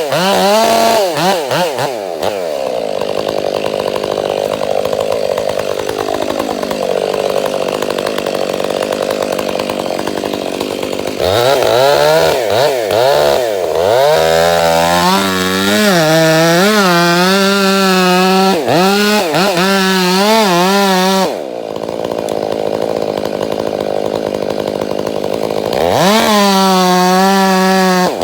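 Two-stroke chainsaw running loudly, its engine pitch swinging up and down again and again, with stretches of steadier running while it cuts through timber.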